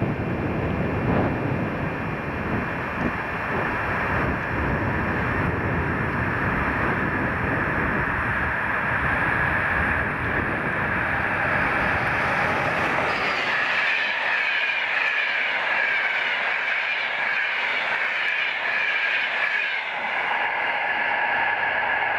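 Passenger train hauled by an NSB El 18 electric locomotive passing close by, with a loud rumbling rush of wheels on rail. About 13 seconds in the low rumble falls away and a high-pitched ringing squeal from the passing coaches carries on.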